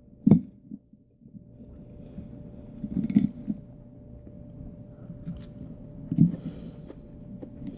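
Chewing and mouth sounds of someone eating close to the microphone, with a few short louder bites or smacks.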